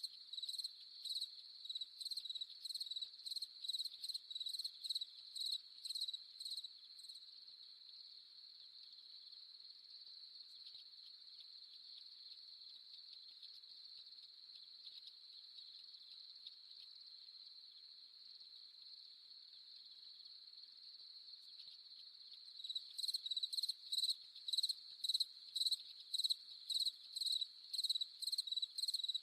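Crickets chirping at night, about two high chirps a second, over a steady high insect trill. The chirping stops about seven seconds in, leaving only the trill, and starts again, louder, near the end.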